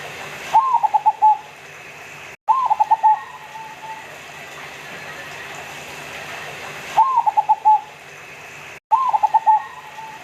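Zebra dove (local perkutut) singing: four short cooing phrases in two pairs. Each phrase is an upswept first note followed by a quick run of about four to five short coos. A steady hiss runs underneath.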